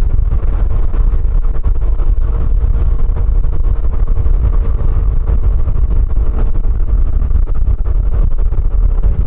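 Scooter engine running at a steady cruising speed, one unchanging engine note over a heavy low rumble.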